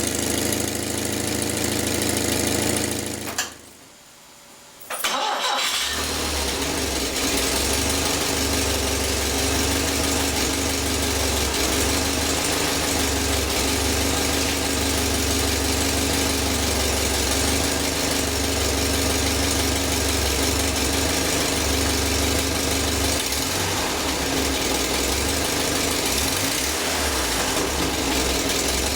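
Peugeot 504 Coupé engine running, then switched off about three seconds in and restarted a couple of seconds later, settling back into a steady run.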